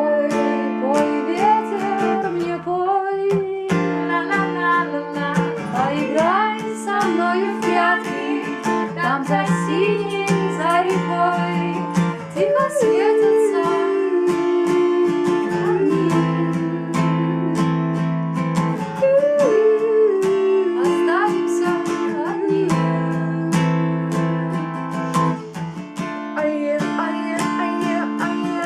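Acoustic guitar strummed and plucked steadily under a sung melody line that glides from note to note.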